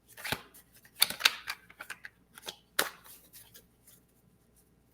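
Tarot cards being shuffled and handled: a scatter of quick clicks and rustles.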